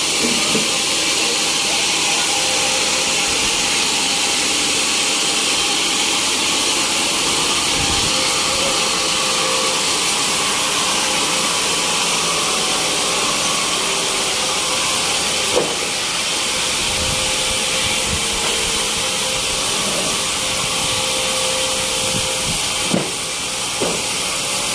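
Sawmill machinery running with a steady hiss, with a few short knocks in the second half.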